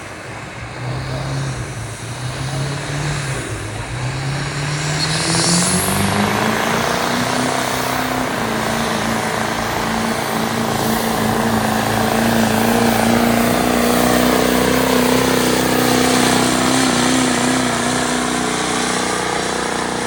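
Turbocharged diesel pickup truck engine under full load in a truck pull, with its turbocharger spooling. The engine note wavers low for a few seconds, then climbs steeply, with a brief rising whistle about five seconds in, and holds high and steady.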